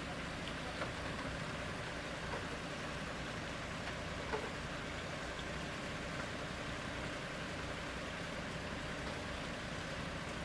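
Machinery running steadily with a low, even drone, and a few faint small knocks.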